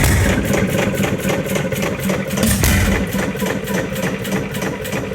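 Antique Erie gas engine running with a rapid, even clatter of about five clicks a second. A heavier low thudding swells about two and a half seconds in, then eases off.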